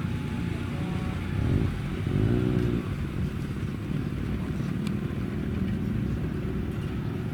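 Car engine running with a low drone, revved up briefly between about one and three seconds in, then settling back.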